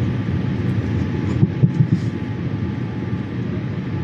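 Steady low rumble inside the cabin of a Boeing 787-8 airliner, with a few brief low knocks about one and a half to two seconds in.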